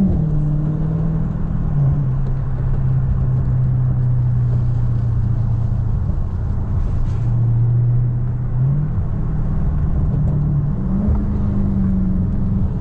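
Dodge Scat Pack's 392 HEMI V8 running at low revs while the car is driven gently. The engine note drops about two seconds in, then rises again near nine seconds and once more near eleven.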